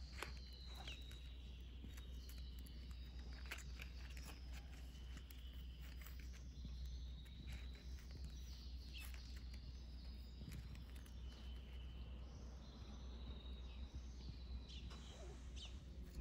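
Small birds chirping, with short repeated calls, over a steady low rumble and scattered sharp clicks.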